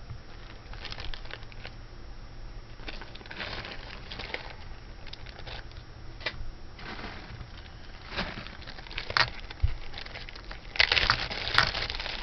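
Small plastic bag crinkling and rustling as it is handled and opened, with scattered short clicks. The crinkling is densest and loudest near the end.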